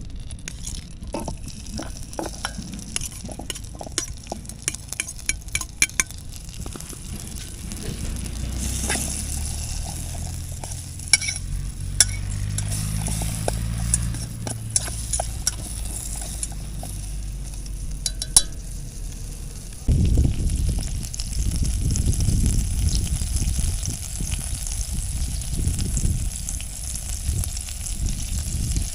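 Food sizzling in a frying pan as it is stirred, with sharp clinks of a utensil against the pan. A low hum sits in the middle stretch, and a louder low rumble takes over about two-thirds of the way through.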